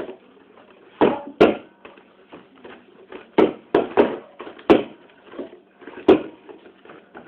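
About seven sharp knocks on a hard surface, irregularly spaced, with a longer gap between the first two and the rest.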